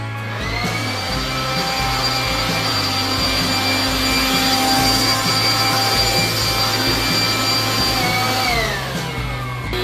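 A high-speed electric motor, vacuum-like, whining up to speed, running steadily, then winding down with a falling pitch near the end.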